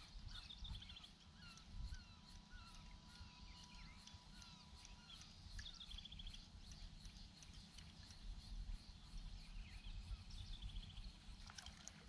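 Faint birdsong: several birds chirping with short whistled notes, and a quick high trill that comes back about every five to six seconds, over a low rumble.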